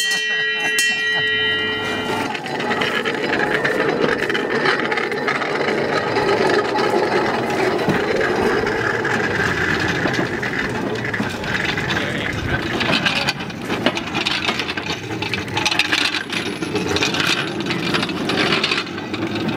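Steady rattling and clattering of a rail bike running along the track, with sharper knocks in the second half. A chord of steady high tones sounds at the start and stops about two seconds in.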